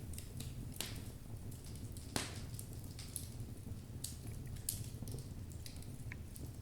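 Wood fire of logs burning in a fireplace, crackling with irregular sharp pops over a steady low rumble; the loudest pop comes about two seconds in.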